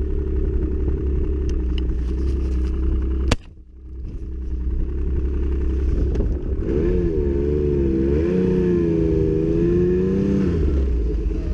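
Snowmobile engine running steadily. About three seconds in there is one sharp crack and the sound briefly drops away. The engine then picks up again, its pitch wavering up and down for a few seconds before settling back to a steady run.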